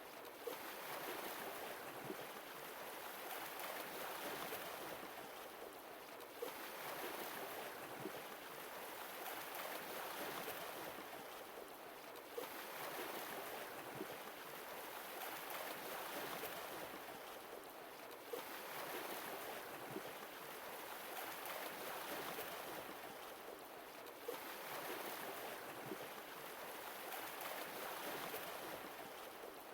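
Sea waves washing in and drawing back in a slow, even cycle, one swell about every six seconds, with small splashing ticks of water between them.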